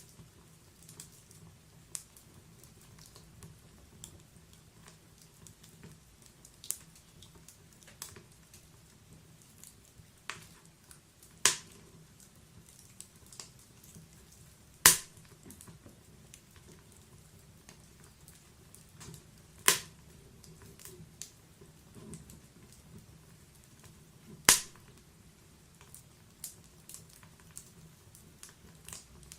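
Wood fire crackling in a log-burning fireplace: scattered small snaps over a low steady hiss, with a few louder pops from the burning logs, about four of them standing out.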